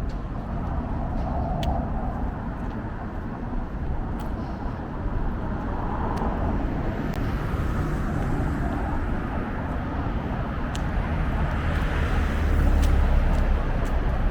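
Outdoor street ambience of road traffic, with a car going by that grows louder near the end.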